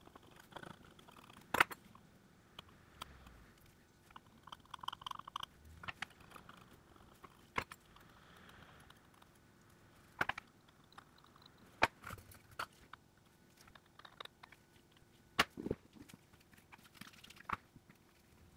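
Scattered sharp clicks and light taps of small tools and smartphone parts being handled on a workbench, about a dozen irregular clicks with quiet between them.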